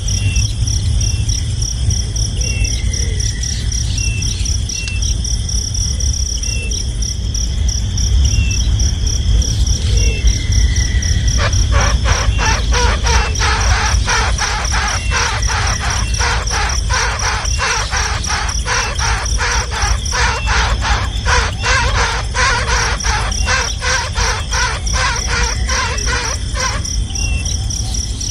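Young birds calling harshly in a fast, dense run of calls, starting about eleven seconds in and lasting some fifteen seconds, over a steady, pulsing high insect-like trill and a low rumble.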